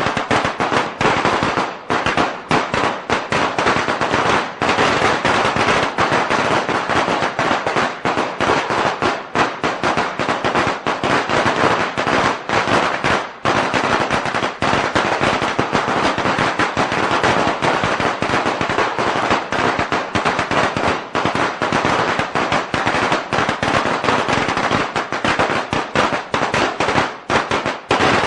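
A long string of firecrackers going off: a dense, unbroken rattle of rapid bangs that never pauses.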